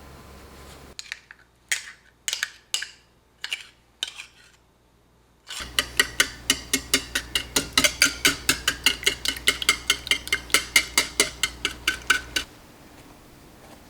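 Rapid whisking in a bowl: a utensil clinks against the bowl in an even run of about six strokes a second for about seven seconds, then stops. Before it come a few separate clinks and scrapes of kitchenware.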